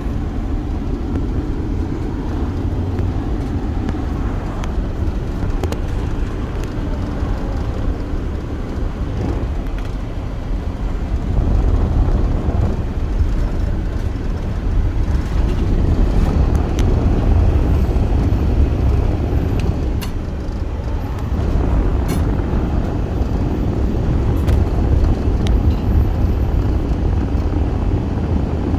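Steady rumble and road noise of a moving vehicle, a little louder from about twelve seconds in.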